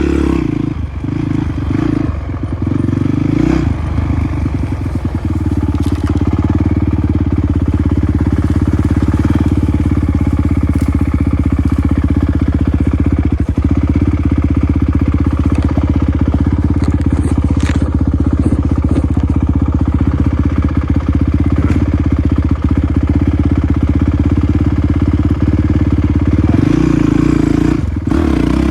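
Off-road motorcycle engine running at a steady speed, its pitch shifting in the first few seconds and rising again near the end as the throttle changes.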